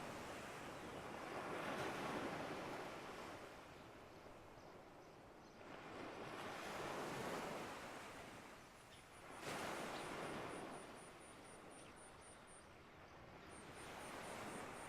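Waves washing in, a rush of noise swelling and ebbing every few seconds, with a quick run of tiny high chirps about two thirds of the way through and again near the end.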